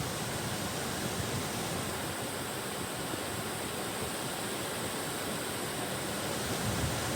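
Waterfall rushing steadily close by, an even, unbroken hiss of falling water.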